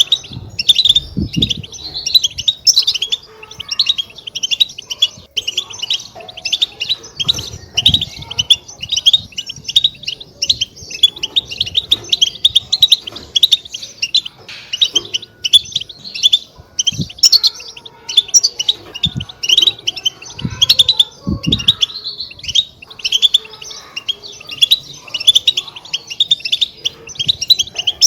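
European goldfinches chattering: a rapid, unbroken run of high twittering notes. This is the 'batbata' chatter that keepers play to excite caged goldfinches into song. A few dull low thumps sound underneath now and then.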